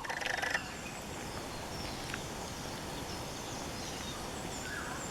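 Hill-forest ambience: a steady even hiss with faint, scattered short bird chirps. A brief louder sound comes in the first half-second.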